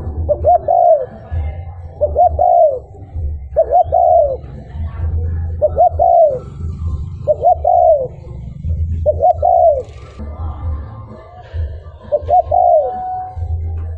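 Spotted dove (cu gáy) cooing: short phrases of several soft notes, repeated about every two seconds, with a longer pause about two-thirds of the way through. A steady low hum runs underneath.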